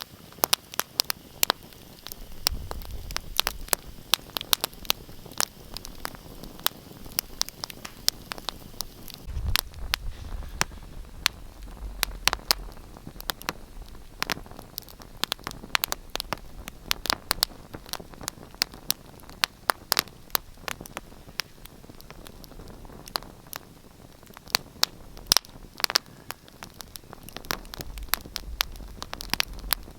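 Wood fire crackling in a fireplace: a steady stream of sharp pops and snaps over a soft hiss, with a low rumble of the flames now and then.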